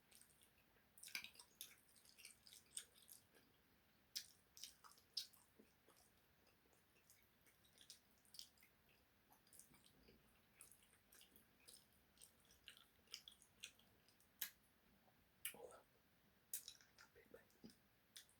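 Faint, close-up mouth sounds of a person chewing juicy beef tacos: irregular wet smacks and short clicks.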